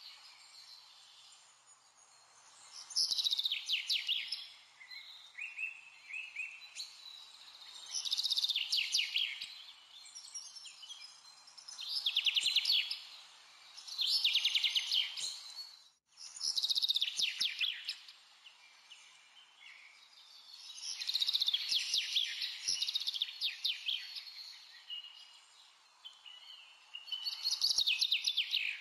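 A small bird singing, repeating short trilled phrases every few seconds over a faint steady hiss; the sound cuts out for a moment about halfway through.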